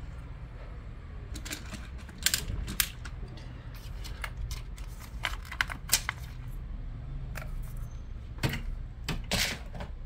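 Scattered small clicks and taps of a screwdriver and plastic laptop parts as the battery is worked loose and lifted out, in clusters about two seconds in, around six seconds and near the end.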